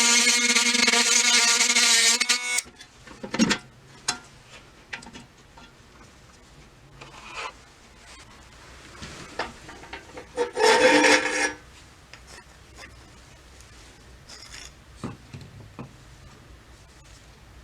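A small power tool running with a steady whine that cuts off suddenly about two and a half seconds in, followed by scattered clicks of parts being handled and about a second of rasping near the middle.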